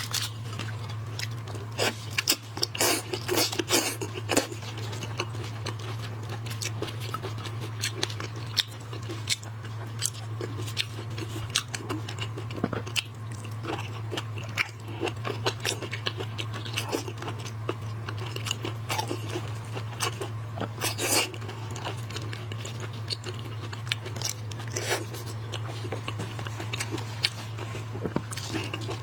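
Close-miked eating of shell-on braised shrimp: crunching, cracking and chewing, with a dense run of crackles and clicks. A steady low hum sits underneath.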